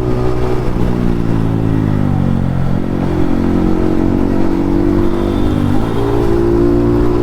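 Yamaha MT-15's single-cylinder engine running through an aftermarket Akrapovic exhaust while riding. The revs fall over the first two or three seconds and then hold steady, with a brief dip and pick-up near the end.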